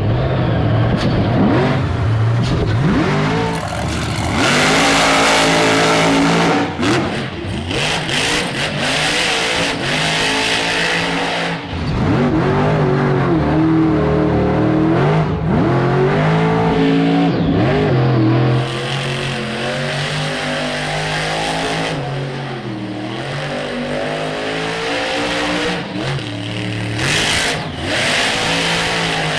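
Son-uva Digger monster truck's supercharged V8 running hard, revved up and down again and again as the truck is thrown around, with the pitch rising and falling throughout.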